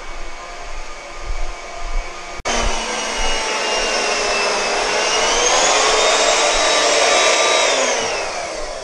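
A high-speed motor whining over rushing air, typical of a vacuum or blower. It jumps louder about two seconds in, its pitch climbs and holds, then falls away near the end.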